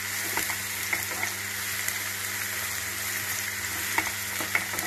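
Chopped onions and green chillies sizzling in hot mustard oil in a nonstick kadai, being lightly roasted. A wooden spatula stirs them, with scrapes and sharp knocks against the pan now and then.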